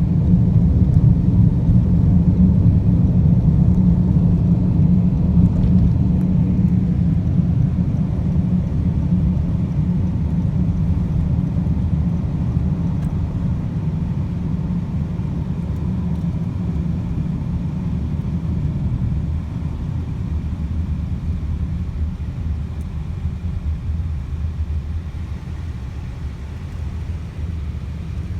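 A car driving: a steady low rumble of engine and road noise that eases slightly toward the end.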